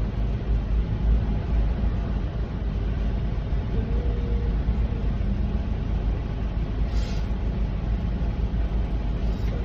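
Steady low rumble of a semi truck's engine and road noise heard inside the cab while driving at highway speed.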